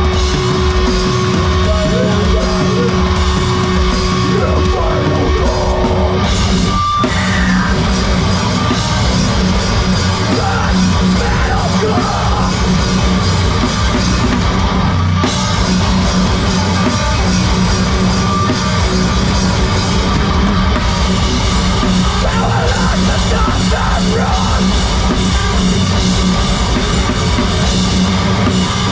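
Heavy rock band playing live at full volume, with drum kit and guitars. A held note drops out about six seconds in, then the full band comes in with a hit and keeps playing.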